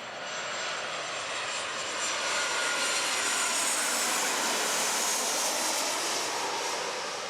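Jet airliner passing overhead on approach, its engine noise swelling to a peak midway and easing off near the end, with a high whine that drops slightly in pitch.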